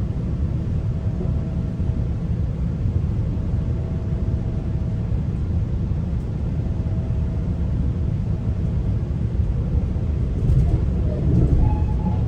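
Steady low rumble of a GO Transit commuter train running between stations, heard inside the passenger coach, with a faint steady whine coming and going. Near the end, a few brief louder sounds rise over the rumble.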